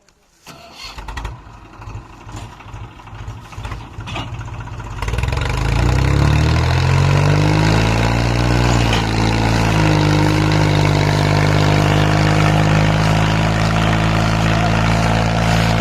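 Swaraj 735 tractor's three-cylinder diesel engine chugging unevenly at low speed, then revving up about five seconds in. Its pitch climbs for several seconds, dips briefly, then holds at a steady high speed under the strain of a heavily loaded trolley.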